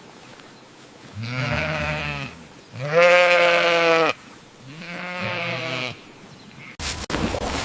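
A goat or sheep-type farm animal bleating three times, each bleat about a second long with a wavering pitch; the middle one is the loudest. Near the end it cuts abruptly to an uneven clattering noise.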